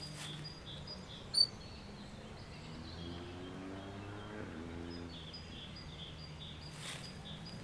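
Woodland ambience with a bird singing short series of high repeated notes, and one sharper high chirp about a second and a half in. A faint low drone rises and fades in the middle.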